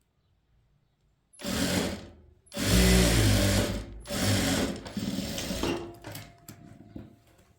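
Sewing machine stitching in three bursts, starting about a second and a half in, followed by a few light clicks near the end.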